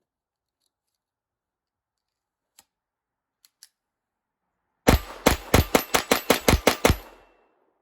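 A .22 LR Ruger Standard semi-automatic pistol firing Winchester Super X hollowpoints in a rapid string of about ten shots in two seconds, with the steel target plates ringing from the hits. The plate hits vary in strength, which the shooter takes as a sign of ammo velocity all over the spectrum. Three faint clicks come a few seconds before the first shot.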